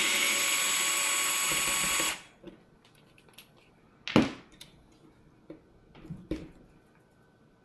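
Handheld power driver running steadily, then stopping abruptly about two seconds in. A few sharp clicks and knocks follow as small parts are handled, the loudest a little past the four-second mark.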